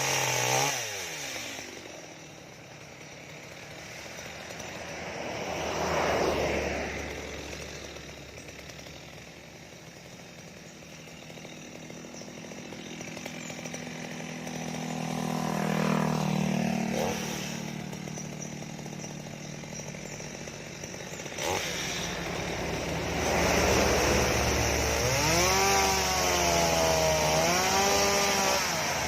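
Stihl MS 230 two-stroke chainsaw running, rising to high revs and dropping back to idle a few times, then held at high revs near the end with the pitch wavering.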